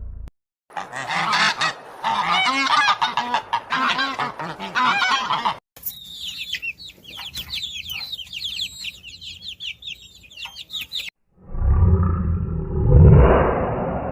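A flock of waterfowl honking, many loud calls overlapping. After a cut it changes to a rapid series of high chirps with clicks, and near the end to a low rumble that swells and fades.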